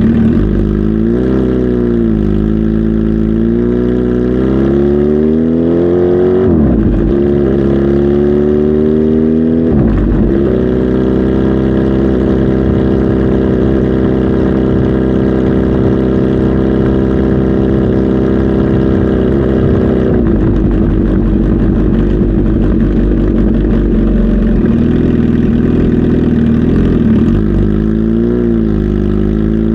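Kawasaki Z H2 SE's supercharged inline-four engine being revved: several rises and falls in the first ten seconds, held steady at higher revs for about ten seconds, then dropping lower and blipped up and down again near the end.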